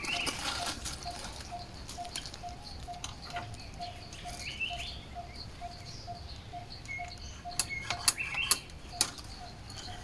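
Forest birdsong: a steady low note repeated about three times a second, with short, higher, rising chirps from other birds. A few sharp clicks come near the end.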